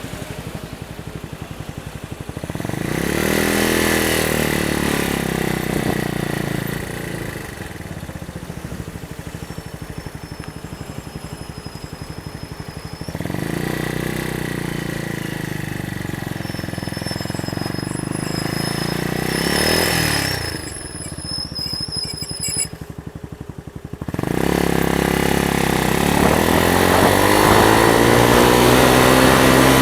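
Lexmoto Hawk motorcycle engine under way, the pitch climbing as it accelerates three times (about two seconds in, again from about thirteen seconds, and from about twenty-four seconds) and dropping back between, as the bike eases off and pulls away again.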